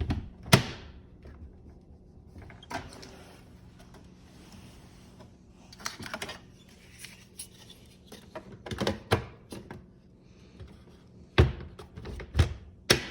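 Scattered knocks and clunks from a dishwasher door being split apart by hand to reach its latch, with the heaviest knocks near the start and in the last two seconds.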